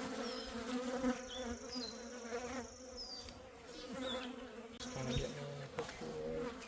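Honeybees buzzing in a steady hum from an opened, well-populated hive.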